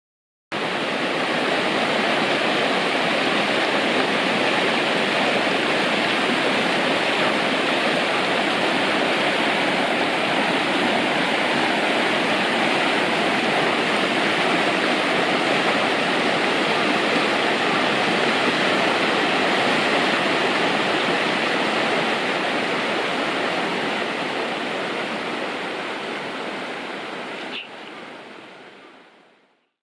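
Mountain stream rushing over rocks, a steady loud flow of water that fades out over the last several seconds.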